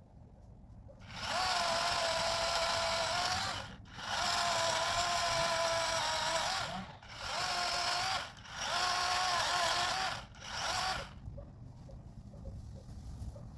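DeWalt electric chainsaw running in five bursts of high-pitched motor whine: two runs of about two and a half seconds, then three shorter ones, each starting and stopping quickly.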